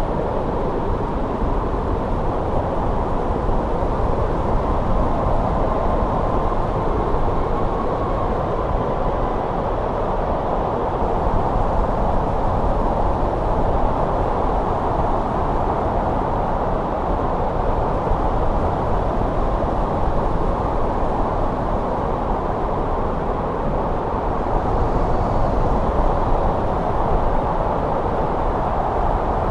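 Winter wind blowing steadily: a low, even rushing noise without distinct gusts.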